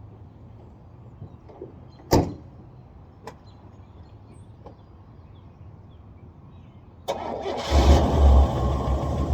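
A sharp click about two seconds in. Near the end the starter cranks the 1984 Buick LeSabre's 3.8 V6 with a heavy, low pulsing, on a battery that is a little low after the car has sat for a month or two.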